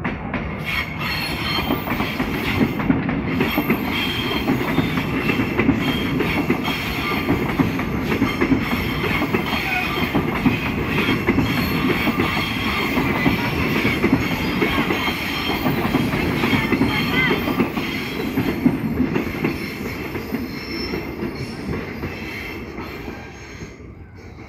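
A passenger train rolling past close by, its wheels rumbling and clacking over the rails with a thin metallic squeal. It comes up loud about a second in and fades away over the last few seconds.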